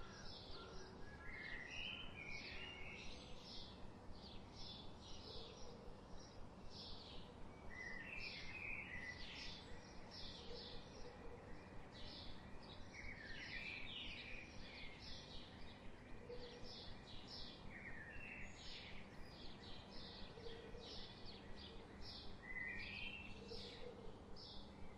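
Forest birds singing: a quick, steady series of short high chirps, about two a second, with a lower wavering call phrase returning every few seconds, over faint background hiss.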